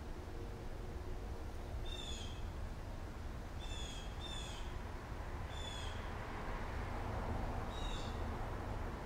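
A bird gives five short, high calls, each slightly falling, spaced a second or two apart with two of them close together. Under them is a steady low rumble.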